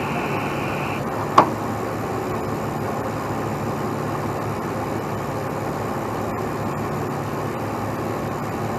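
Heavy truck's diesel engine running steadily, with a single sharp clank about a second and a half in.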